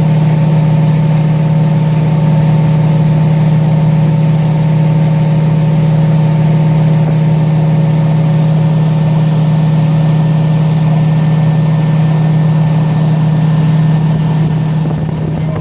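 Motorboat engine running steadily at constant speed: a loud, even drone with a deep tone. The level drops a little and grows uneven near the end.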